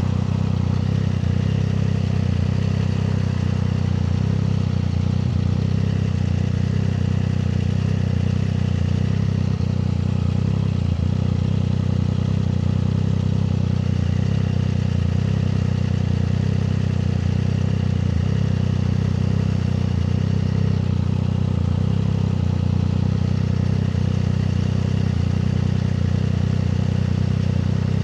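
Triumph Street Triple 765 RS inline three-cylinder engine running steadily at a constant engine speed, with no revving.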